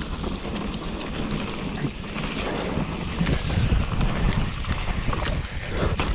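Downhill mountain bike ridden fast over a wet, rooty trail: wind buffeting the microphone and tyres rumbling over the ground, with scattered sharp clicks and knocks from the bike's chain and frame rattling over bumps.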